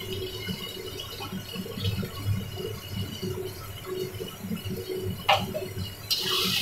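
Spice paste with tomatoes bubbling and frying in oil in a steel kadai, an irregular low bubbling throughout. There is a sharp click about five seconds in, and a louder, brighter hiss starts just before the end.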